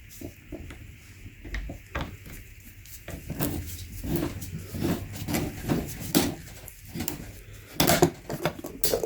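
Used Amsoil EA017 spin-on oil filter's steel canister being cut open by hand: a run of irregular metal clicks and scraping knocks, getting louder from about three seconds in, with the loudest knocks near the end.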